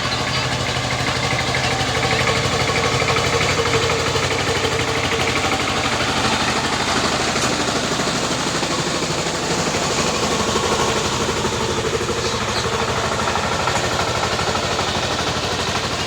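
Tractor engine running steadily, with rapid, even firing pulses.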